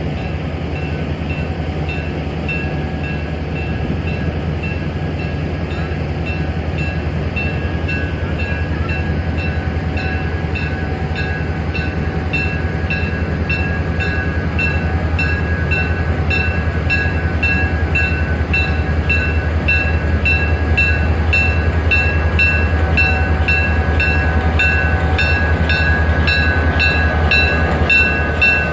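Excursion passenger train car rolling along the track. A steady low rumble runs under a regular ticking and a faint steady high whine.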